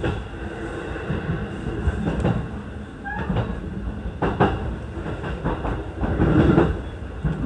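JR East E233 series 0 electric train running, heard from inside the front car: a steady low rumble with clickety-clack knocks as the wheels cross rail joints, the sharpest about two and four seconds in.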